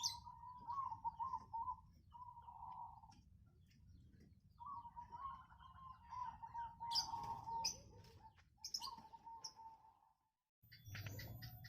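Zebra doves (perkutut) cooing: wavering, trilling calls near one pitch that break off and start again, with sharper, higher chirps scattered over them. A little before the end the sound cuts out for a moment, then a run of ticks begins.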